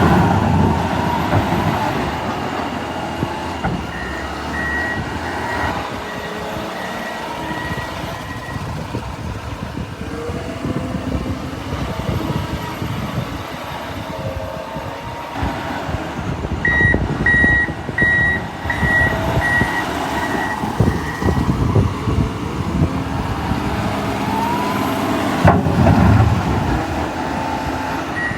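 John Deere 544L wheel loader's diesel engine working steadily, revving up near the start and again near the end. A reversing alarm beeps in two stretches, a few seconds in and past the middle.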